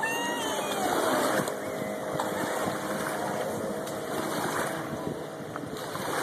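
Jet ski engine running at a distance, its pitch falling in the first second and then settling into a steady drone, over the hiss of wind and water.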